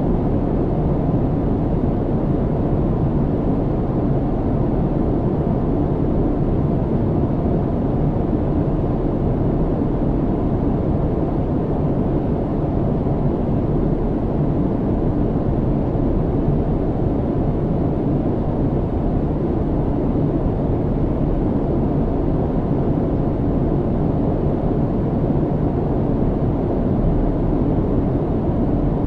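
Steady low rumble of airliner cabin noise in flight: engine and airflow noise heard from inside the cabin, unchanging, with a faint steady hum on top.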